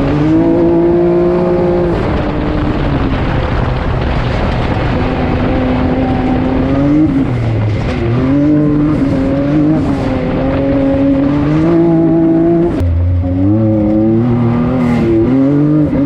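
Off-road vehicle engine running hard under varying throttle, its pitch holding, rising and falling. It drops sharply about thirteen seconds in, then climbs again in steps.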